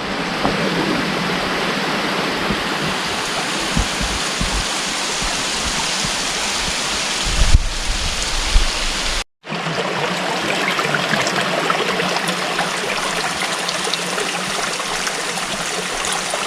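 Steady rush of flowing water, broken by a sudden cut about nine seconds in before it carries on. A couple of low knocks come just before the cut.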